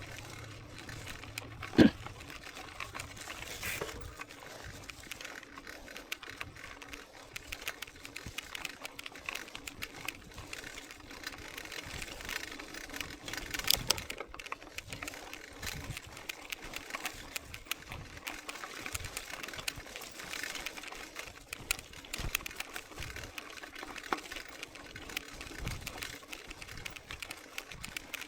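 Mountain bike riding along a trail, its chain and frame rattling in a constant run of small clicks, with a sharp knock about two seconds in and another near the middle.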